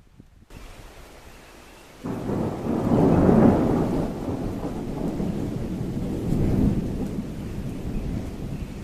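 Thunderstorm in a sudden heavy downpour: rain hissing steadily, with a long rumble of thunder that swells about two seconds in and rolls on, swelling again later.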